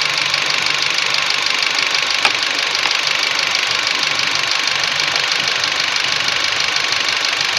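Chery Tiggo 8 1.5-litre four-cylinder engine idling steadily while misfiring on cylinder 4, whose ignition coil is not firing properly. A single sharp click comes about two seconds in.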